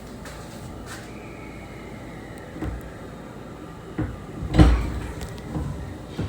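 A door on a moving JR 681-series train shuts with one loud thump, with a few lighter knocks around it, over the steady low rumble of the running train.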